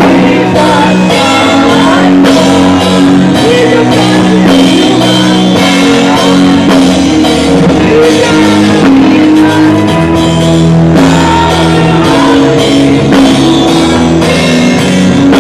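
Loud live gospel music: a choir singing over a band with drums keeping a steady beat.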